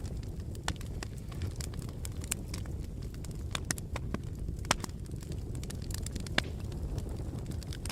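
Wood fire burning in a fireplace: a steady low rumble of the flames with irregular sharp crackles and pops, two louder snaps in the second half.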